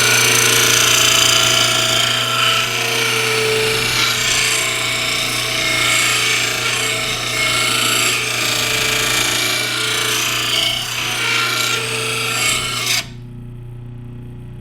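Oregon bench mower-blade sharpener grinding a steel mower blade, a harsh steady grinding noise over a low motor hum. The grinding cuts off suddenly about thirteen seconds in, leaving only the low hum.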